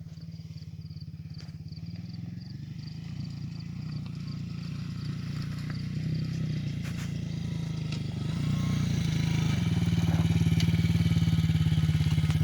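Yamaha TT-R110 pit bike's single-cylinder four-stroke engine running at a steady low speed. It grows louder through the clip, stepping up about eight seconds in and staying loudest near the end.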